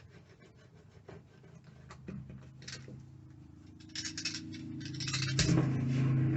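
Light clicks and scraping, then a pickup truck's engine running with a steady low hum that builds; a sharp thump about five seconds in, after which the engine sounds louder.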